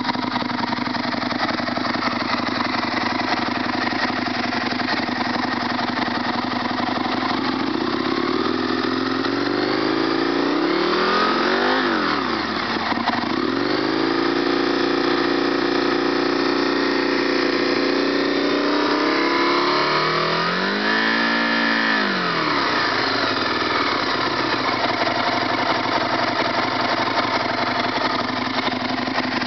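Aprilia RSV Mille's 60-degree V-twin with an Arrow silencer, running on the stand. It idles, is revved up and held at raised revs for several seconds with one brief drop partway, then gets one quick blip up and down before settling back to idle.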